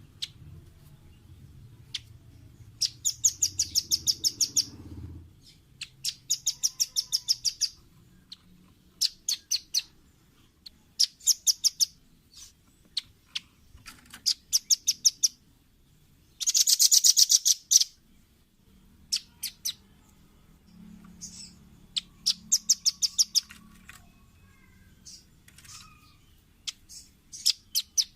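Red-billed rambatan (velvet-fronted nuthatch) calling: rapid runs of sharp, high, evenly spaced chip notes, each run a second or two long, with single chips between, and one faster, louder trill about two-thirds of the way through.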